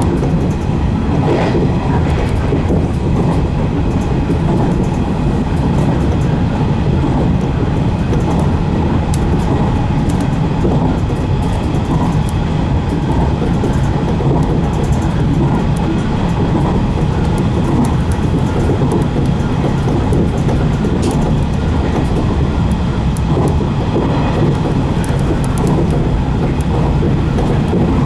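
115 series electric train running at speed, heard from its leading car: a steady rumble of wheels on rail with a faint steady whine, and scattered clicks over the rail joints.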